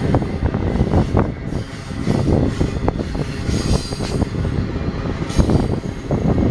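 BNSF intermodal stack train rolling past, with steel wheels rumbling and knocking along the rails in a continuous clatter. A brief high-pitched wheel squeal comes about halfway through.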